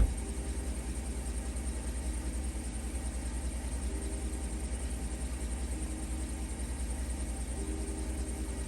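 Dodge Caliber's engine idling, a steady low rumble, just after the bass music cuts off.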